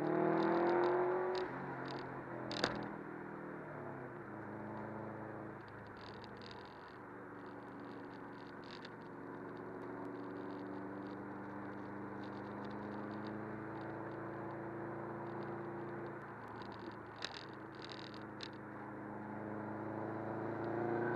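Subaru WRX's turbocharged flat-four engine heard from inside the cabin, rising in pitch under acceleration at the start, easing back and running steadily through the bends, then climbing again near the end, over steady road noise. A sharp click sounds about three seconds in, and a few lighter ones come late on.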